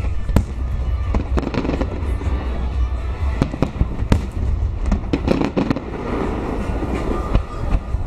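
Fireworks going off: a rapid run of sharp bangs and pops, with a thicker stretch of crackling a little past the middle.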